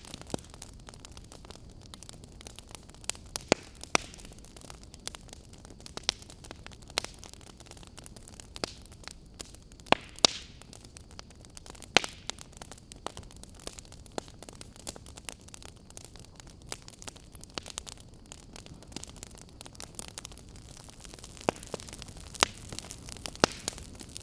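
Campfire crackling: irregular sharp pops and snaps from the burning wood over a steady low hiss, a handful of them much louder than the rest.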